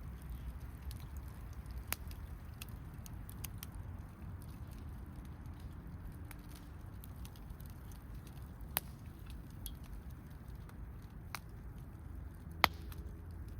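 Wood campfire crackling, with scattered sharp pops and ticks, the loudest near the end, over a low steady rumble.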